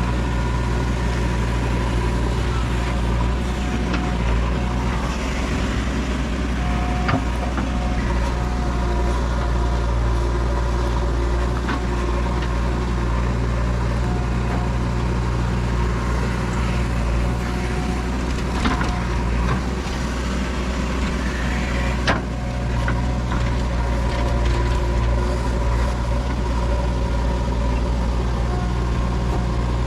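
Diesel engine of a JCB 3DX backhoe loader running steadily, with a few sharp knocks now and then.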